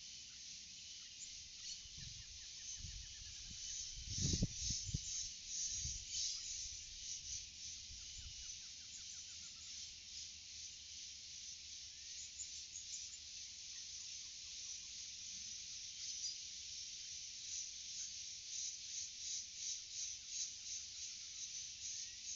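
Dense chorus of forest insects, a steady high buzz made of fast pulses, with faint short chirps mixed in. A few low thumps come between about two and eight seconds in, the loudest about four seconds in.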